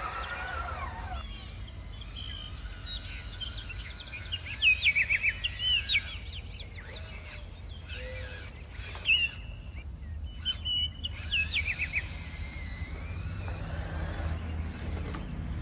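Small birds chirping in quick runs of short, rising notes, over a steady low rumble of outdoor noise.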